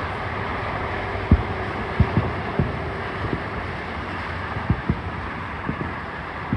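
Fireworks booming at a distance: a string of short, low thuds, about eight of them at uneven intervals, over a steady background noise.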